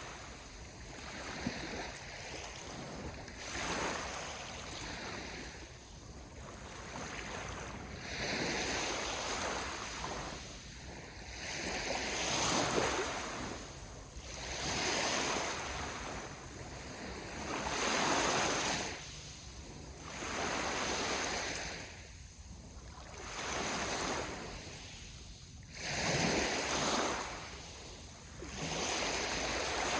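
Sea waves washing in, each swell of surf rising and falling away about every two to three seconds.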